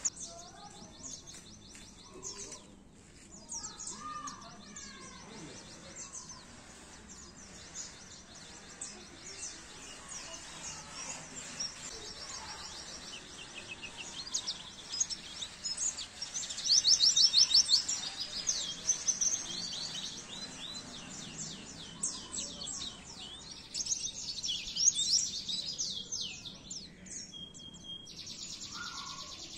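Pleci (white-eye) song: rapid, high twittering trills and chirps, loudest about seventeen seconds in.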